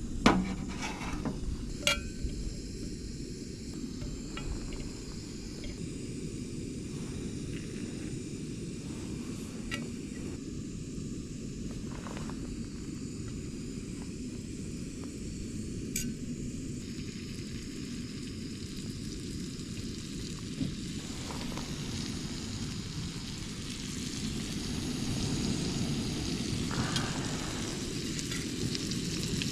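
Lamb chops frying in a pan, with a steady sizzle that grows louder near the end. A few short knocks and clicks of cooking utensils, the loudest right at the start.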